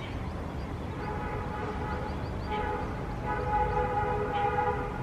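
A vehicle horn sounding in a steady pitched tone three times over the low rumble of city traffic, the last blast the longest and loudest.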